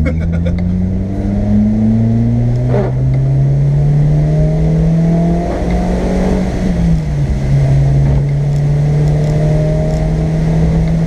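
Car engine heard from inside the cabin, accelerating with its note climbing. The pitch breaks about three seconds in and dips again near seven seconds as the gears change, then holds steady.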